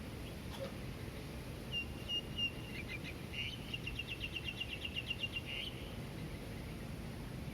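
A small bird calling: a few short, high whistled notes, then a fast run of chirps at about eight a second. Underneath is a steady low hum of distant traffic.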